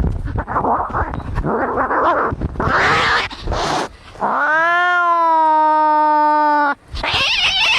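Cats fighting: a harsh, noisy hissing scuffle, then about halfway through one long caterwauling yowl that rises and then holds steady for over two seconds. The yowl cuts off suddenly and the harsh hissing starts again.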